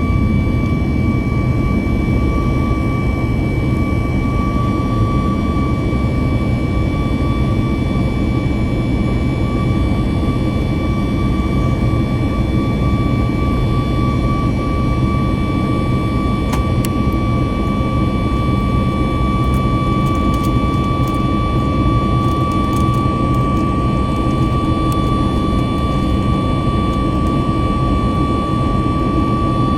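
Airliner jet engines heard from inside the passenger cabin, running steadily: a deep rumble with a steady high whine over it.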